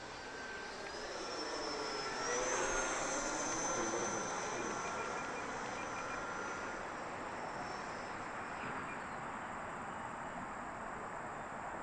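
The electric ducted fan of an FMS Rafale RC jet whining in flight. The whine is loudest a couple of seconds in, dropping in pitch as the jet passes, then fades to a steadier, fainter whine.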